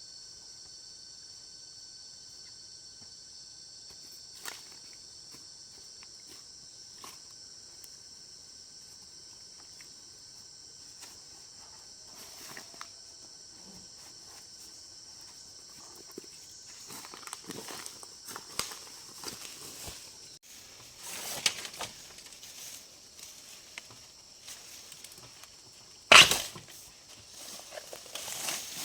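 Steady high-pitched insect drone. From about halfway there is rustling, with snapping and crunching like footsteps through undergrowth. A single loud, sharp crack comes a few seconds before the end.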